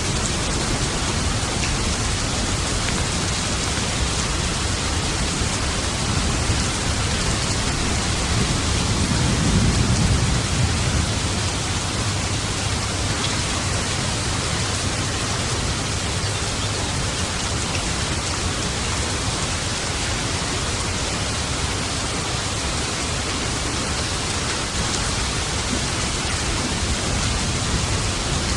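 Steady rain falling, with a low roll of thunder that swells about a third of the way in and fades.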